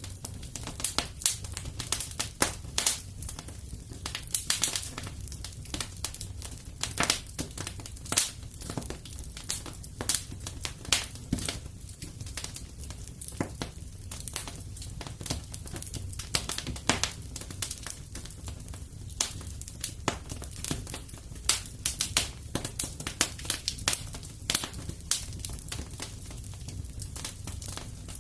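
Wood fire crackling in a fireplace: irregular snaps and pops, several a second, over a steady low rumble of the flames.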